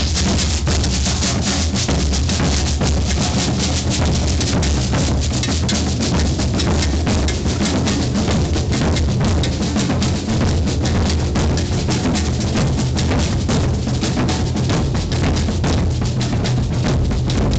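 Maracatu percussion ensemble playing a steady, loud groove: deep alfaia bass drums under rapid snare-drum strokes.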